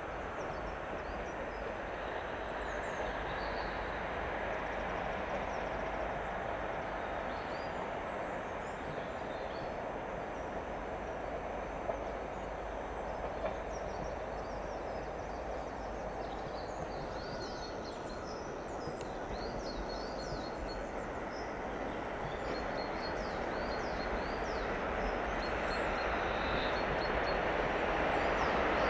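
Steady rumble of a diesel multiple unit running on the line, with small birds chirping high above it from about halfway. Near the end the noise grows louder as an electric locomotive approaches.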